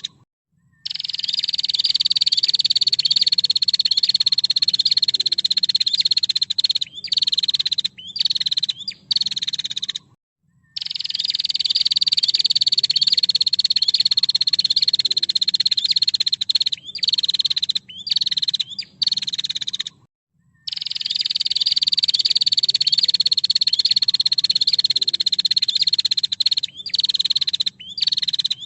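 Female prenjak (prinia) calling: a long, rapid, dry ticking trill, high-pitched and falling slightly, lasting about six seconds and followed by a few short bursts. The call repeats about every ten seconds, three times.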